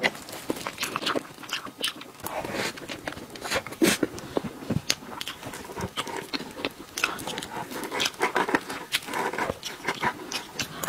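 Close-miked wet mouth sounds of eating soft cream cake: chewing, lip-smacking and sticky clicks, in quick irregular succession.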